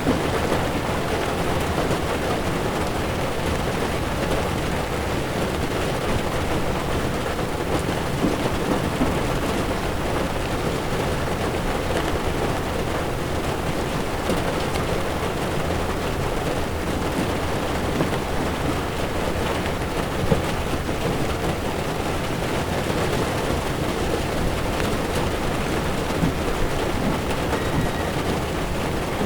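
Heavy rain falling on a moving car's windshield and body, with tyre hiss on the wet road and a low steady rumble, heard from inside the car. A few sharper drop hits stand out, one about twenty seconds in.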